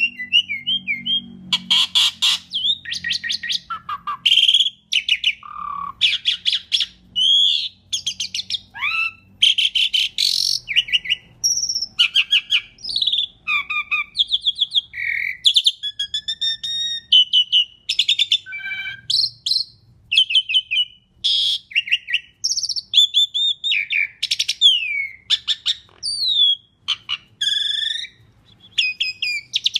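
Asian pied starling (jalak suren) singing a long, unbroken, varied song: rapid harsh chattering rattles mixed with whistled notes that glide up and down.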